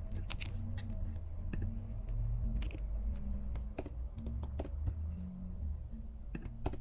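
Computer keyboard keys clicking in irregular bursts of typing, over a low steady hum.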